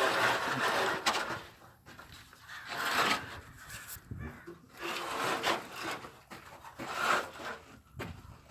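Irregular rubbing and scraping strokes, following a steady hiss that stops about a second and a half in.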